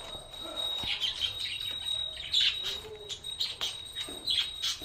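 Pet budgies chirping: a run of short, quick chirps, loudest about two and a half seconds in and near the end.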